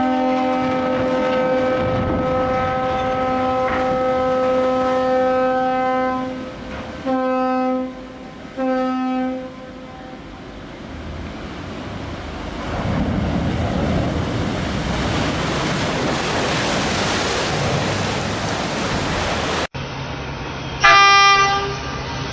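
Ship's horn sounding one long blast, then two short blasts, followed by a swelling rushing noise. After a cut, another short horn blast sounds over a low engine hum.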